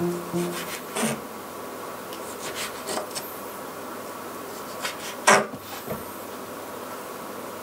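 Kitchen knife slicing smoked salmon on a wooden cutting board: scattered knocks and short scrapes of the blade against the board, the loudest about five seconds in, over a faint steady hum.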